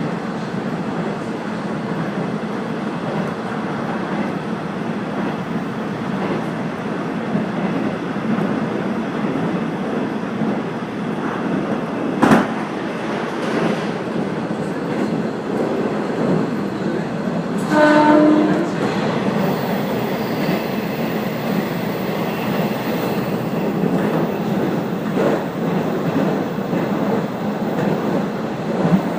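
Diesel railcar running along the track: a steady rumble of wheels on rail and the moving train. There is a single sharp click about 12 seconds in, and a brief pitched note, like a horn, about 18 seconds in.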